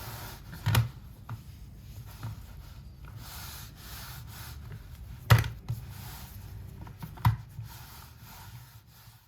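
Henry Xtra vacuum's hard floor tool rubbing and scraping as it is pushed back and forth over a hard floor, with a few knocks; the loudest comes about five seconds in. A low steady hum runs underneath.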